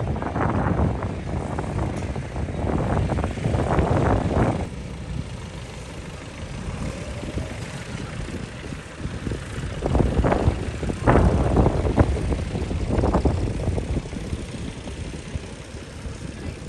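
Tractor engines running as tractors drive past, loud at first, quieter from about four seconds in, then loud again for a few seconds past the middle.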